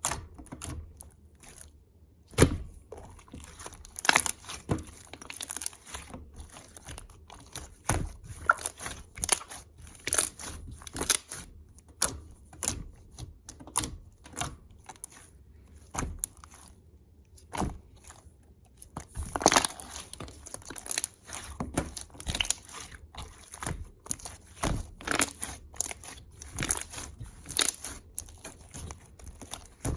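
Fruit cereal being handled and crunched up close: irregular crunches, crinkles and sharp clicks, with a few louder ones about two, four, eight and twenty seconds in.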